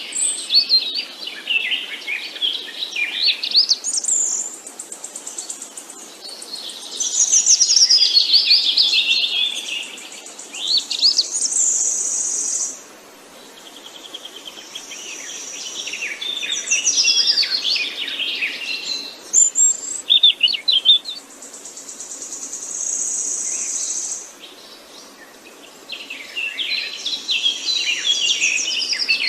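Songbirds singing and chirping in overlapping phrases a few seconds long, with quieter gaps between them. Now and then comes a steady high trill lasting a second or two.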